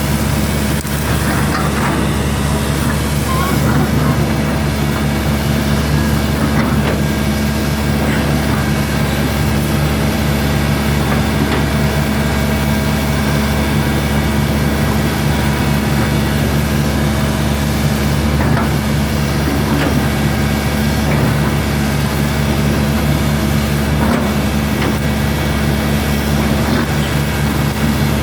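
Hitachi hydraulic excavator's diesel engine running steadily, with a few faint knocks along the way.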